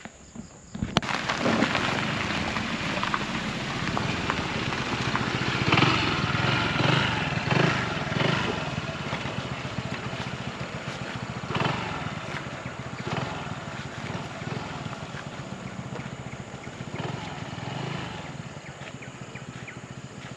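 An engine running, cutting in suddenly about a second in and continuing steadily under a wash of noise.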